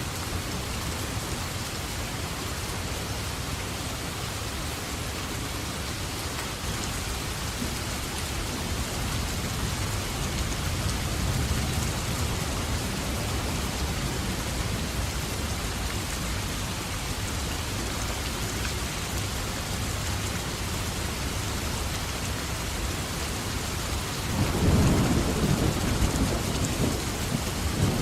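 Steady rain falling, with distant thunder rumbling underneath. A louder roll of thunder swells about four seconds before the end.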